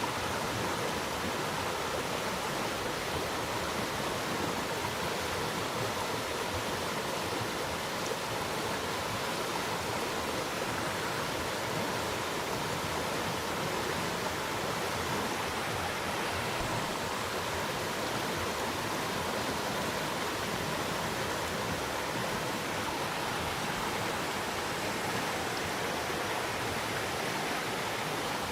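Steady, unbroken rushing of flowing water, with no distinct events.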